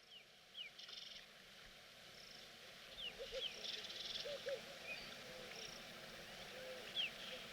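Faint wildlife ambience: scattered short bird chirps and small warbling calls over pulsed buzzing from insects.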